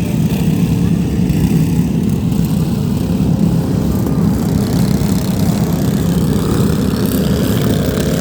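Several vehicle engines running hard together, a loud, rough, steady din with no break.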